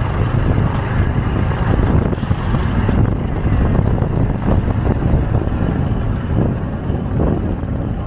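Motorcycle engine running under way, heard with wind rushing over the microphone on the moving bike; a steady, loud rumble with no clear changes.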